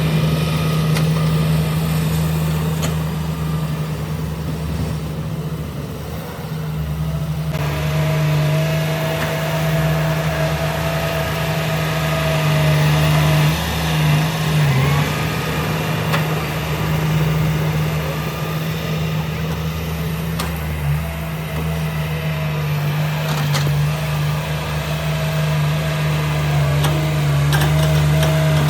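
Diesel engine of a heavy earthmoving machine (bulldozer or excavator) running steadily under work. A steady low drone runs throughout, with a thin whine that sets in a few seconds in, drops away mid-clip and comes back later.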